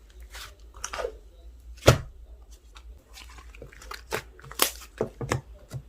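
Slime being squished and stretched by hand, giving irregular sharp pops and crackles, the loudest about two seconds in and several more close together near the end.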